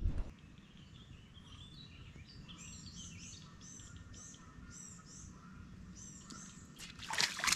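A songbird outdoors repeating short high chirps, about two a second, over low wind rumble on the microphone. Near the end a sudden louder splash at the water's surface as a fish takes the bait.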